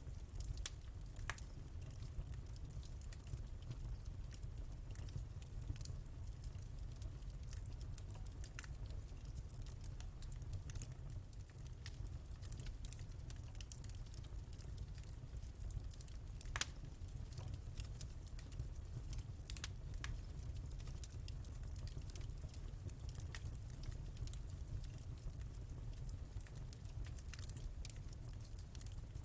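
Wood fire crackling in a fireplace: many small, irregular pops and snaps over a steady low background, with a few louder pops here and there.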